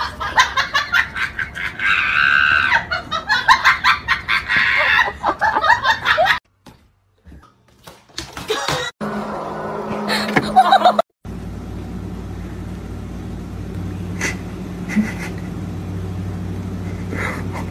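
A person laughing in rapid bursts for several seconds. After a break, a steady low hum sets in with a few faint clicks.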